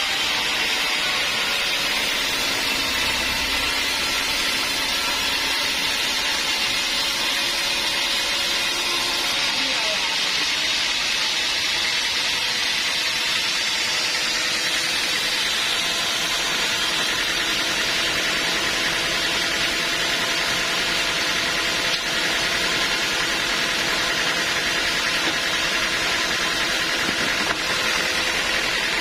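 Sawmill machinery running steadily, a constant mechanical noise with no breaks.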